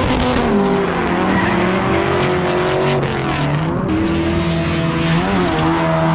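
Drift car on track, its engine held at high revs, dipping sharply about three and a half seconds in and climbing back, over a haze of tyre noise from sliding.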